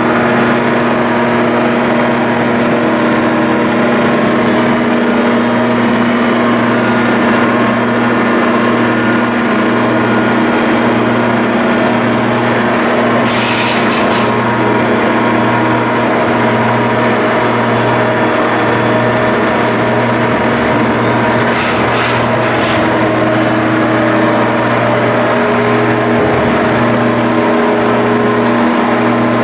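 A ship's diesel engine running steadily with a constant hum, and brief hissing bursts about 13 seconds and 22 seconds in.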